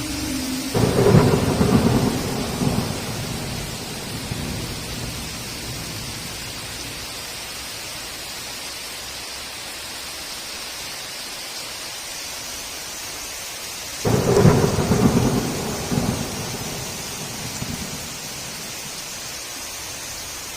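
Heavy rain hissing steadily, with two claps of thunder, one about a second in and one about two-thirds of the way through, each rumbling for a couple of seconds before dying away.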